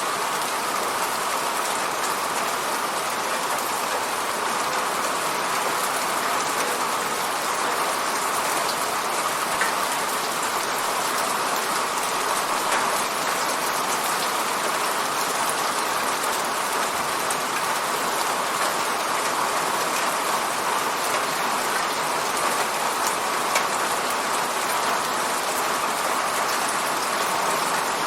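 Steady rain hitting a window pane, an even hiss with scattered faint ticks of individual drops.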